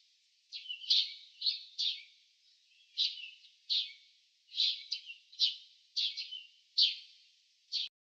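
Small bird chirping: a quick, irregular run of about fifteen short, sharp chirps that stops abruptly near the end.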